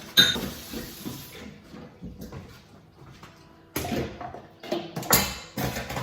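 A pot of boiling pasta water and pasta tipped into a strainer in the sink: a sudden rush and splash of water that fades over a second or so, then a run of clatters and splashes near the end.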